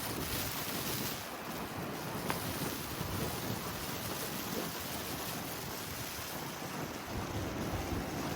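Steady rushing wind in a heavy snowstorm, buffeting the microphone.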